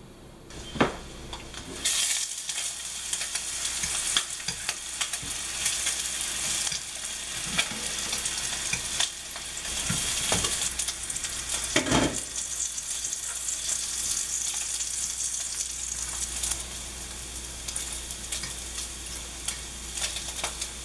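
Slices of garlic SPAM sizzling as they fry in a nonstick frying pan, the hiss starting about two seconds in. A few sharp knocks against the pan cut through it, the loudest about twelve seconds in.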